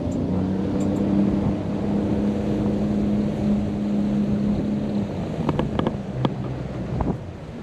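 Motorboat engine running under power through a sharp turn: a steady drone over wind and water noise. A little after five seconds in, the engine pitch drops as it is throttled back, with a few sharp clicks near the end.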